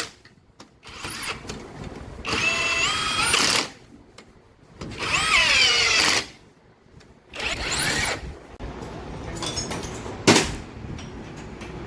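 A power driver running down the crankshaft main bearing cap bolts in three bursts, its pitch rising and falling with each run. A single sharp knock comes near the end.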